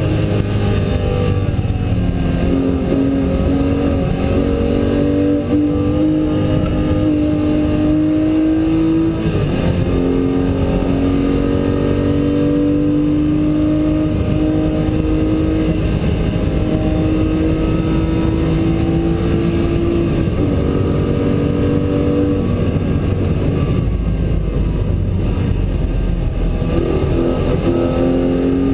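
Porsche 997 GT3 RS race car's flat-six engine heard from inside the cabin, loud and steady, its pitch climbing slowly under long pulls and dropping sharply about 9 and 20 seconds in. Beneath it runs a steady rush of road and tyre noise on the wet track.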